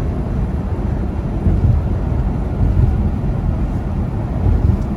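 Semi truck cruising on the interstate: a steady low engine drone and road rumble.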